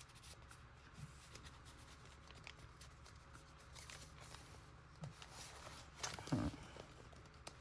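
Quiet handling of paper and journaling cards: faint rustles and light taps, with a short louder sound about six seconds in.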